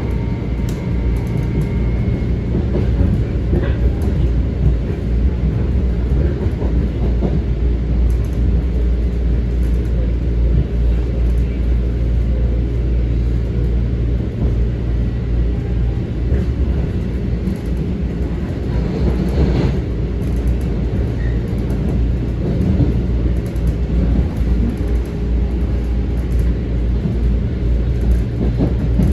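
Metro-North M7 electric multiple-unit train running between stations, heard inside the passenger car: a steady low rumble of wheels on rail and running gear, with a few faint knocks.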